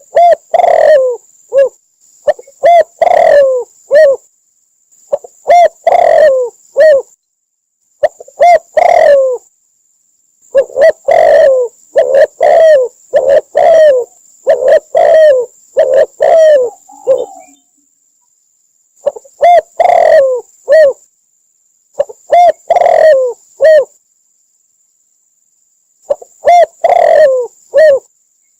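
Spotted dove cooing in repeated phrases of about one to two seconds each, separated by short pauses. It is a recorded call played as a lure for trapping doves.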